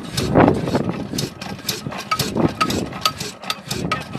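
Slow-speed 22 HP stationary oil engine, rated 300 RPM, running steadily with a rapid, even ticking of about four to five clicks a second.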